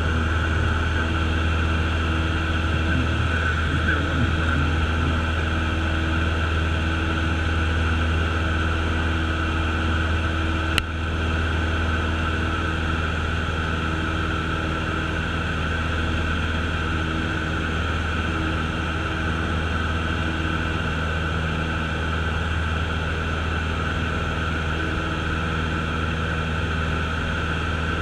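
Steady drone of a Cessna's piston engine and propeller heard inside the cockpit, running at a constant setting. A single sharp click comes about eleven seconds in.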